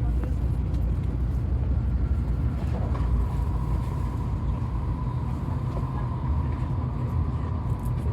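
Cabin noise of a Tokaido Shinkansen train running: a steady low rumble, joined about three seconds in by a faint steady whine.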